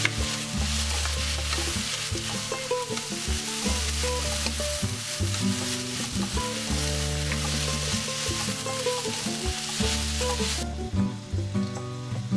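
Thin-sliced pork belly, onion and fish cake sizzling as they are stir-fried in a nonstick pan, stirred and pushed around with a wooden spatula. The sizzling cuts off suddenly about ten seconds in.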